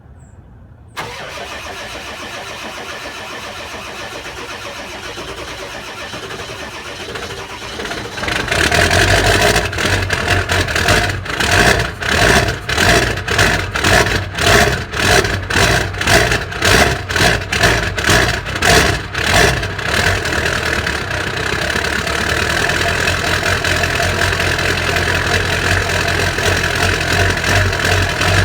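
Ford 7.3 Powerstroke V8 diesel cold-started in single-digit cold: the starter cranks from about a second in, the engine catches around 8 s in, and it runs rough with an uneven surge about one and a half times a second before settling into a steadier idle near the 20 s mark. The rough running is typical of a cold, high-mileage diesel on worn original injectors and reduced compression.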